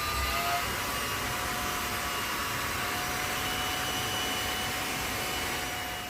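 Conair hot-air styling brush running on its low setting: a steady rush of air with a faint motor whine. It winds down near the end.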